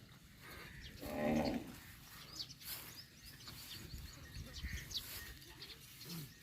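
A farm animal calls once, short and pitched, about a second in, with birds chirping around it.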